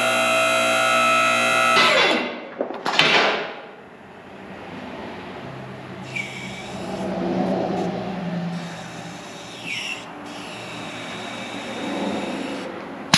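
Car lift's electric hydraulic pump motor running steadily for about two seconds and then shutting off, followed a second later by a sharp metallic clank; the lift is being raised slightly so its stuck safety lock can release.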